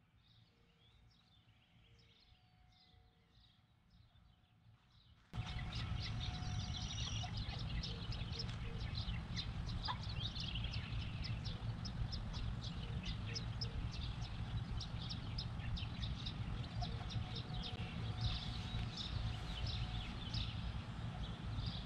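Small birds chirping and singing over a steady low outdoor rumble, faint at first and then much louder from about five seconds in.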